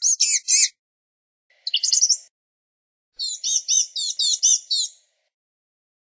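Blue-gray gnatcatcher calling in quick runs of thin, high-pitched notes: a phrase ending just after the start, a short burst about two seconds in, and a longer run of about nine notes from about three to five seconds in.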